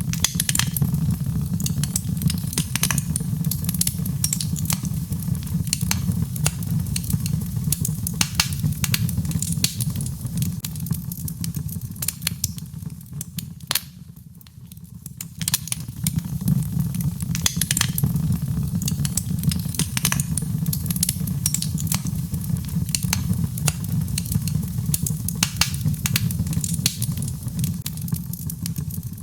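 Birch logs burning in a fireplace: frequent sharp crackles and pops over a steady low rumble of the flames. The fire goes quieter for a moment about halfway, then picks up again.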